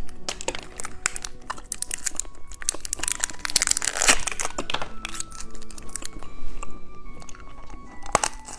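Crinkling and rustling of plastic candy packaging being handled, a dense run of small crackles.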